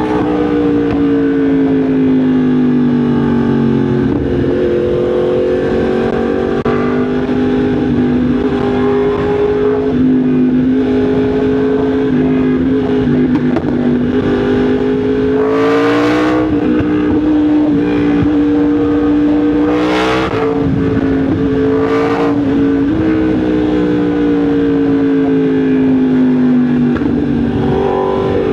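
Yamaha MT-10 SP's crossplane inline-four engine running steadily under way, its pitch sagging and climbing gently with the throttle. Three short rushes of hiss cut in about halfway through and later.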